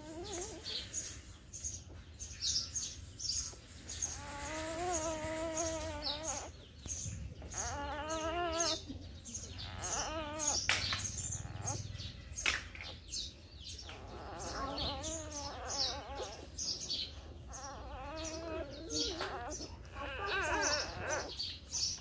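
Small birds chirping repeatedly in short high notes, with several longer calls of wavering pitch at intervals.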